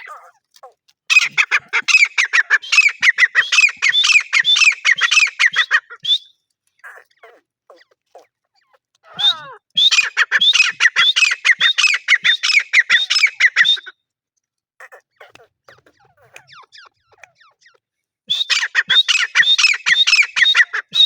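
Grey francolin (teetar) calling in three long bouts of rapid, repeated notes, each several seconds long, with short quiet gaps between them.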